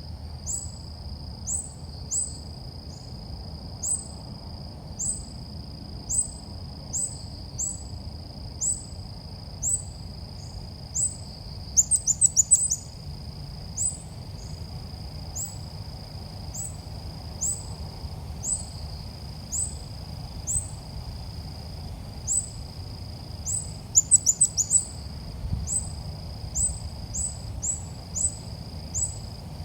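Calls of the ốc mít bird, played as a trapping lure: short high rising chirps about once a second, with a quick rattle of several chirps about twelve seconds in and again near the end, over a steady high whine.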